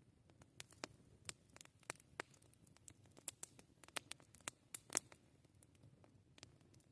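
Campfire crackling: irregular sharp snaps and pops of burning wood, the loudest pop about five seconds in.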